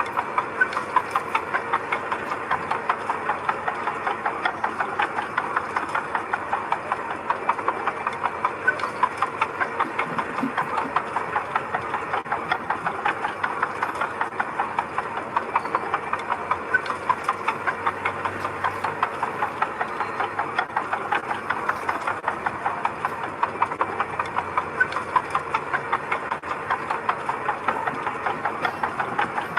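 Heavy machine's engine running steadily, with a regular rapid clatter of knocks over it.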